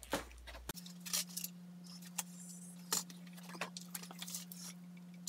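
Small metal hardware being handled: screws and bolts for mounting a miter saw to its stand rails, making irregular clicks and clinks. A steady low hum comes in under it less than a second in.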